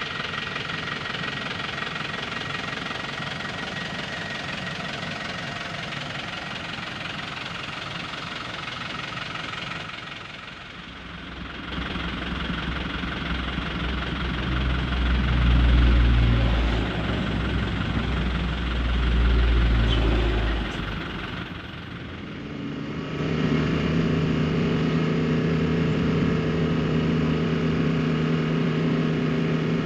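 Truck engines running: a steady engine sound, then a heavy low rumble that swells twice through the middle, then an engine idling with a steady hum.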